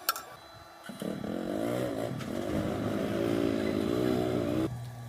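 A small engine running with its pitch rising and falling as it is revved. The louder part cuts off suddenly near the end and leaves a low steady hum. A sharp click comes right at the start.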